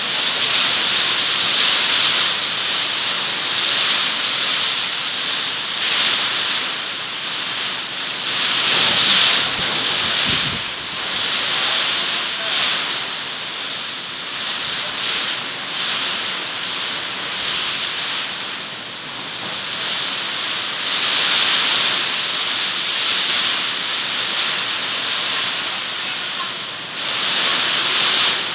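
Heavy rain pouring down in a steady hiss that swells and eases every few seconds.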